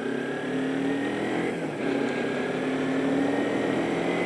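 Kawasaki Ninja 250R's parallel-twin engine accelerating, rising in pitch and dropping back at upshifts about half a second in and just before two seconds in, with wind and road noise underneath.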